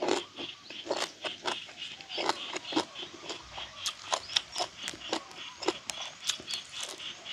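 Close-up mouth sounds of a man chewing grilled frog and papaya salad: irregular wet smacks and clicks, several a second, over a steady high buzz in the background.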